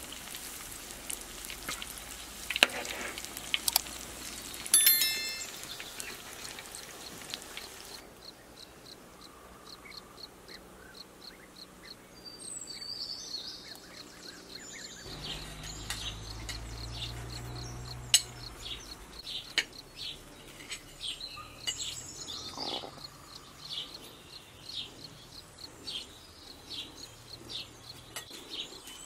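Eggplant kebab patties sizzling as they fry in oil, with a couple of sharp clicks, until about eight seconds in; then birds chirping and singing.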